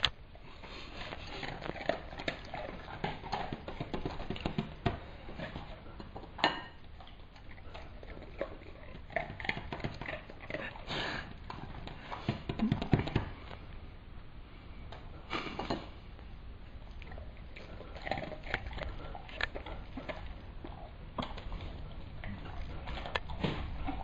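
Irregular clicks, taps and scrapes of eating at a table, with a few louder knocks.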